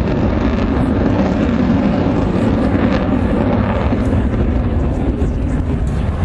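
Jet aircraft engine noise from a flying display: a loud, steady roar with a deep rumble underneath.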